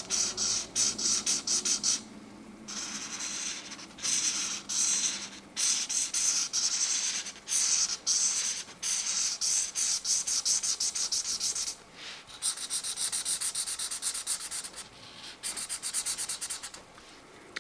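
Felt-tip marker tip scratching over paper in quick back-and-forth colouring strokes, in runs with short pauses, the strokes getting faster and finer in the second half.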